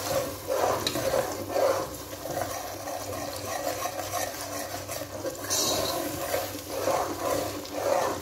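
Raw onion, ginger and garlic paste frying in hot oil in a nonstick pot, bubbling and sizzling while a slotted spoon stirs it in repeated strokes against the pan. It is being fried down (bhuna) so the raw taste of the onion, ginger and garlic cooks off.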